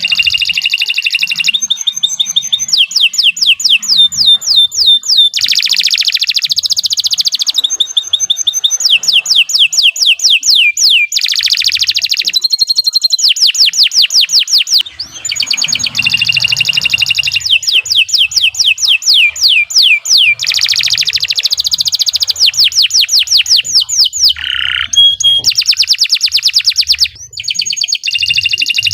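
Domestic canary singing a long, almost unbroken song of fast trills and rapid repeated chirps. The phrases change every second or two, with only brief pauses.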